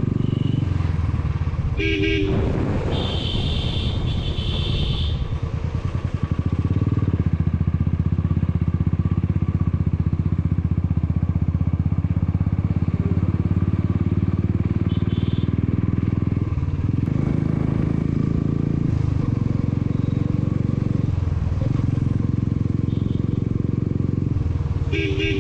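Motorcycle engine running steadily under way, with the rise and fall of riding through tight bends. A horn beeps briefly about two seconds in and again near the end, and a higher horn-like tone sounds for about two seconds soon after the first beep.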